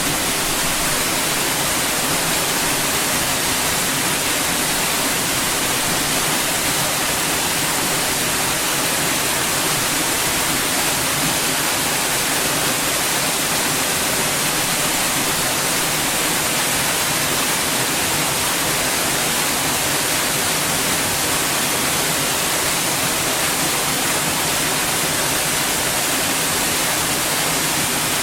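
Steady white noise: an even, unbroken hiss across the whole range, strongest in the treble.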